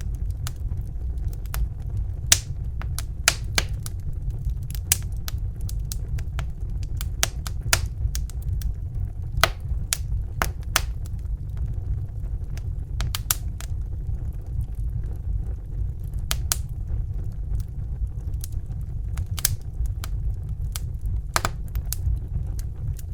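Wood fire crackling: irregular sharp pops and snaps over a steady low rumble of flame.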